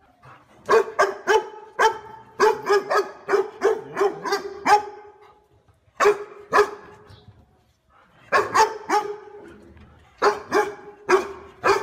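Dog barking: sharp, loud barks of the same pitch in quick runs, about a dozen in the first few seconds, then a pair, then short groups of three or four after pauses.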